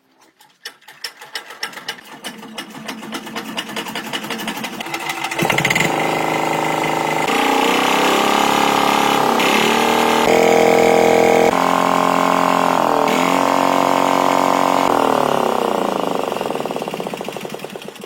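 Tractor engine starting: firing beats that speed up and grow louder over the first five seconds, then running steadily, its speed rising and falling, before the beats slow again near the end.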